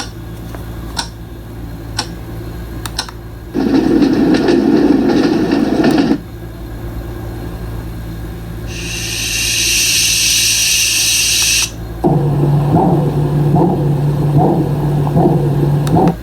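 Dreamegg D3 Pro white noise machine playing a run of different sounds, each for a few seconds: a low hum with faint clicks, then a deep rushing noise, a high hiss, and near the end a low steady tone that pulses about twice a second.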